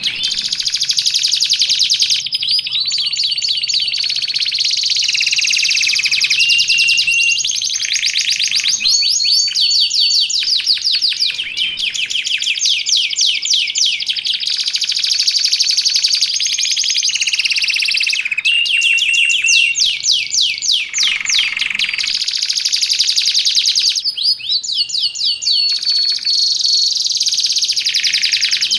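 Domestic canary singing without pause: long strings of fast trills and rapid repeated notes, broken by short held whistles, with the phrase changing every second or two.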